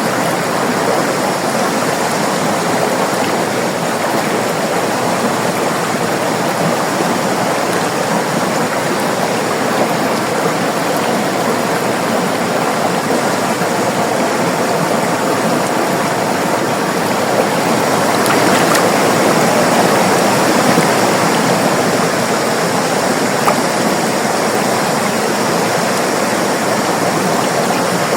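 River water running over rocks: a steady, loud rush, swelling a little about two-thirds of the way through.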